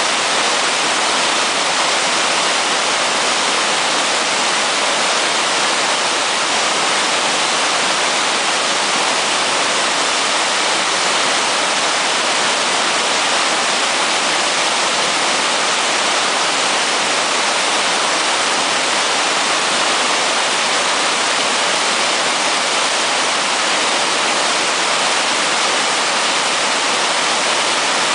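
Mountain stream in flood, its water rushing and churning in a loud, steady roar.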